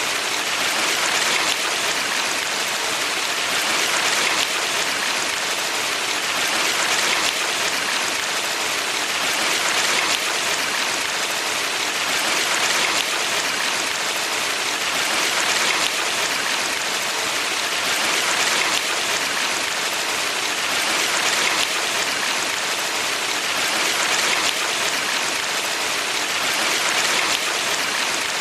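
Valley stream water rushing steadily, an even hiss that swells gently every few seconds.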